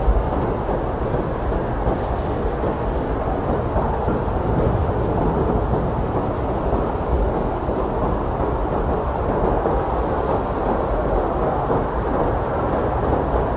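Blizzard wind blowing hard and steadily: a dense, low rushing noise that keeps an even level with no single gust standing out.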